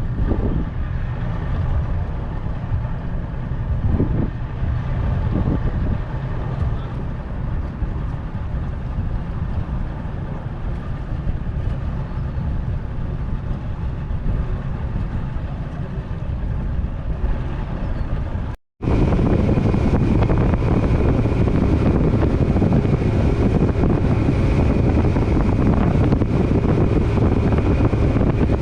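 Boat motor running with wind buffeting the microphone. After a brief cut about two-thirds of the way through, the wind and engine noise is louder, with a steady high whine over it.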